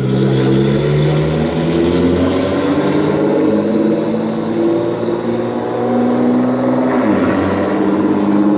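A straight-piped Nissan GT-R R35's twin-turbo V6 running loud and hard. Its note holds and shifts pitch in steps, then falls about seven seconds in.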